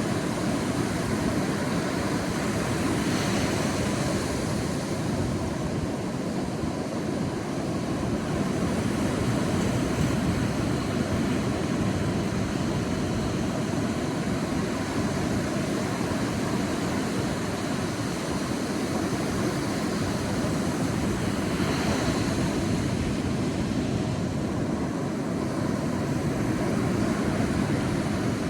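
Sea waves washing onto a beach: a steady rush of surf, with a wave swelling and breaking about three seconds in and again about twenty-two seconds in.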